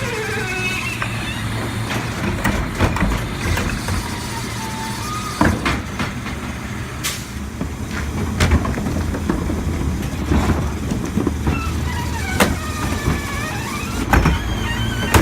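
Diesel Mack LEU garbage truck with a Heil body, its engine running steadily, with repeated sharp clunks and bangs. Wavering high squeals come near the start and again in the last few seconds.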